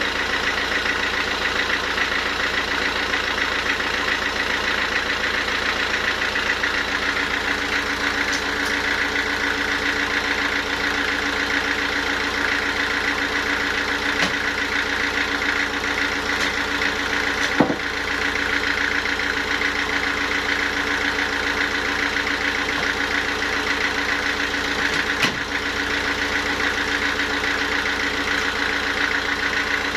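Sawmill machinery running steadily, a constant mechanical drone with a high whine. A sharp knock cuts through about halfway through, and a second one comes near the end.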